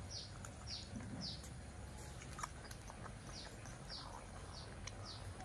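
A small bird chirping in short, high, falling notes about two a second, in one run near the start and another in the second half. Faint clicks come from a baby monkey sucking on a milk bottle.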